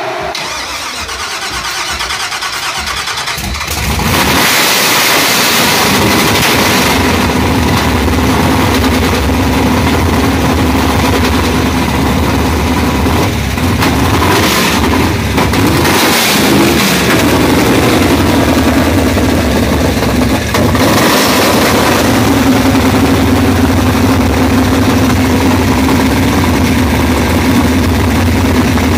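Big-block V8 on mechanical fuel injection cranking, then catching about four seconds in and running. It is blipped a few times, with surges around the middle, then settles into a steady idle.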